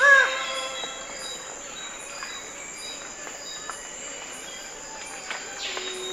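A bird gives one loud, short call that arches up and falls in pitch, just at the start. Fainter bird whistles and a steady high insect pulse carry on behind it.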